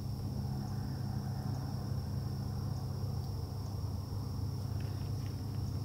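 Steady low drone of a distant engine, with a thin steady high insect trill over it.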